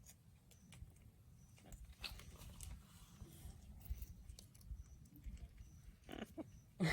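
Parrot nibbling and biting at a rubber shoe with its beak: faint, scattered small crunching clicks.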